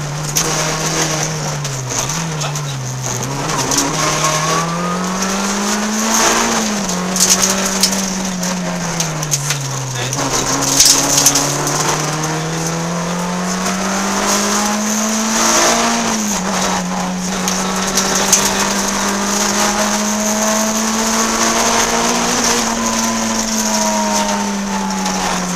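Peugeot 106 N2 rally car's four-cylinder engine, heard from inside the cabin, revving hard up and down under racing load. The pitch climbs and drops sharply at upshifts about six and sixteen seconds in, and eases off for slower sections about two and ten seconds in.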